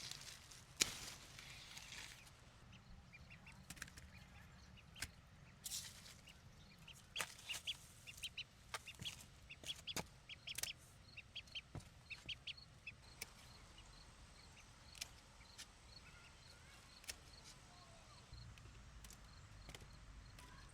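Chickens clucking softly in short calls, mixed with scattered sharp taps and a brief rustle about six seconds in. The calls thin out in the second half.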